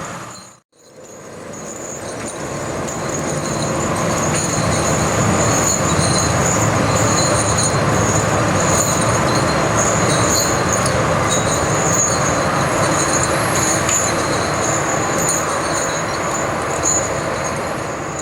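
Heavy diesel logging machinery running steadily, a low engine drone with intermittent high-pitched squeaks and whine over it. The sound fades in within the first second.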